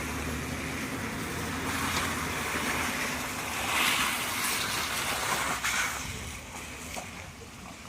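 A vehicle moving slowly on a dirt road: a low engine hum under a steady rush of tyre and road noise, both easing about six seconds in.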